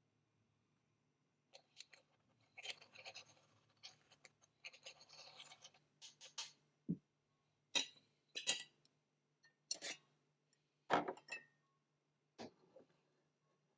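Hands preparing espresso: scraping and rustling of the ground coffee and tools for a few seconds, then a run of separate sharp clicks and knocks as the metal parts are handled.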